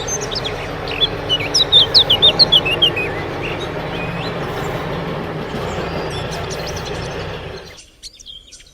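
Rapid bird chirps for about two seconds, over a steady noise that stops near the end.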